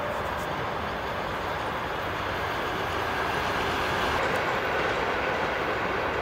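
Passenger train running on the track: a steady noise of wheels on rails that grows slightly louder about four seconds in.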